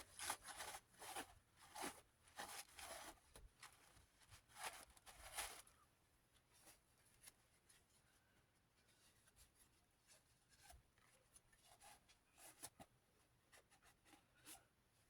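Faint scrubbing of a Magic Eraser sponge on a plastic fan blade: a quick run of short rubbing strokes for about the first six seconds, then only occasional light rubs and clicks.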